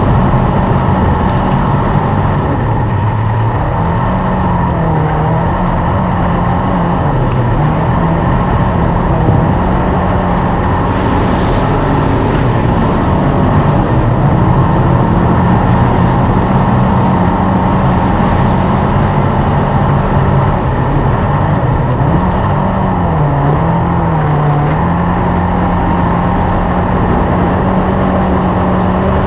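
Dirt-track race car engine running hard and steady, its pitch dipping briefly and coming back up twice as the driver eases off and gets back on the throttle.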